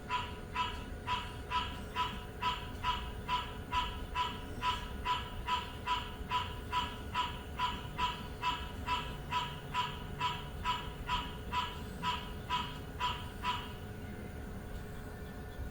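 An animal calling: one short pitched call repeated evenly about two to three times a second, stopping near the end.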